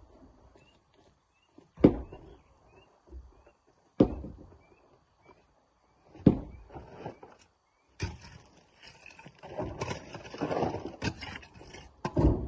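Heavy knocks of rock being worked and loaded by hand, one about every two seconds. From about eight seconds in there is a longer stretch of clattering and scraping, then another heavy knock near the end.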